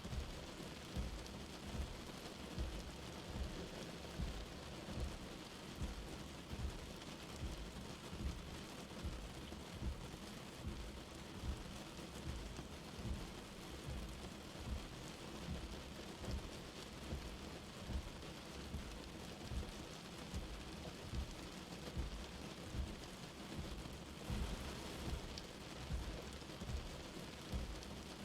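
Light rain falling steadily in an even hiss, with a soft low thud repeating about once every two-thirds of a second underneath.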